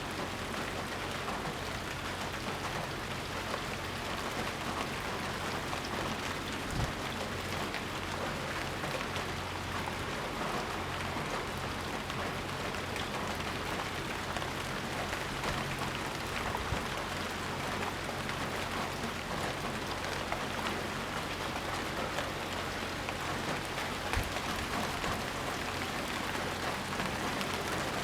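Steady heavy rain pattering on surfaces, an even hiss with a few soft low thuds now and then.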